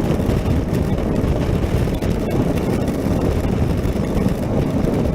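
Honda NC700X motorcycle riding at highway speed in the rain: a steady rush of wind on the microphone mixed with the parallel-twin engine and tyre noise on the wet road.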